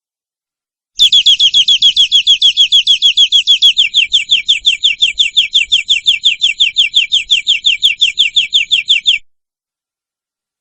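Domestic canary singing one long trill of identical rapid downward-sweeping notes, about seven a second, dropping slightly in pitch about halfway through. The song starts abruptly about a second in and cuts off abruptly near the end.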